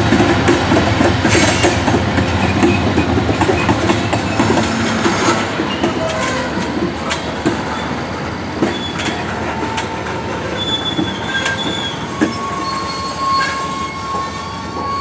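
Freight cars rolling past at low speed: a steady rumble and clatter of steel wheels on the rails that slowly grows quieter. A few sharp clanks come through, and thin high wheel squeals set in over the second half.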